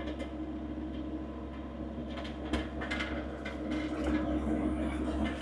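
Diesel engine of heavy equipment idling steadily, with a few scattered clicks and knocks over it.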